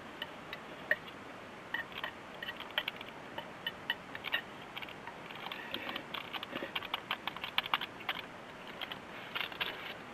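Light, irregular clicks and taps, like small hard objects being handled, busiest in the second half.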